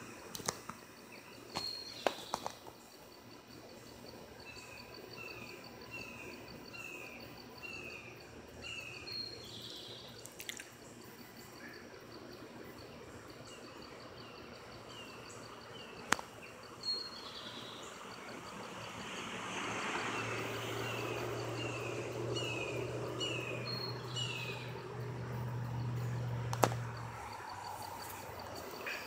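A bird calling in runs of short, falling notes, several in quick succession, three runs in all, over a steady pulsing chirp of insects. A low rumble swells up in the second half and fades near the end, with a few faint clicks.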